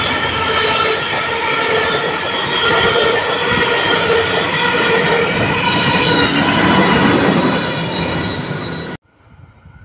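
A long passenger train passing at speed through a station: loud rolling wheel noise on the rails with several steady high ringing tones over it. It cuts off abruptly about nine seconds in.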